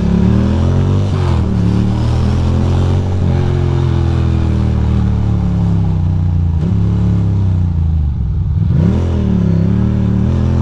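Ducati Monster 821's two-cylinder engine running at low speed, its note rising and falling briefly a few times. One cylinder keeps cutting out, which the rider blames on a failing spark plug and plug wires.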